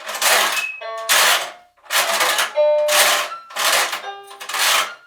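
Moluccan cockatoo screeching over and over, about six harsh screams in a row, each about half a second long, with short pitched notes between them.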